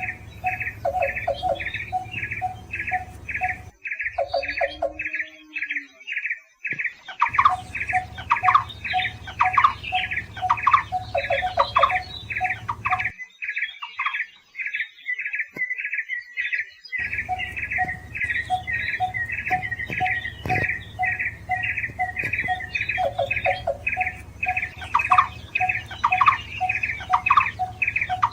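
Barbets calling: a fast, even series of short repeated notes, about three a second, with a second bird's lower repeated notes running alongside. The sound cuts out briefly twice.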